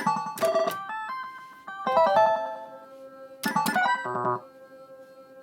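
Electronic beeps and short stepped chime tones from an Oohanabi pachislot slot machine, in several quick groups, each opening with a sharp click.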